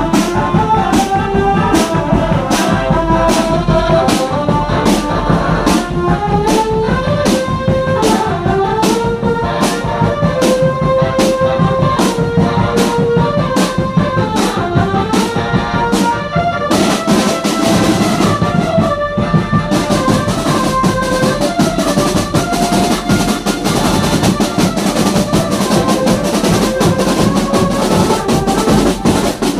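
Brass band music: trumpets playing a melody over a steady drum beat of about two hits a second, which changes to a busier rhythm after about 17 seconds, with a brief break near 19 seconds.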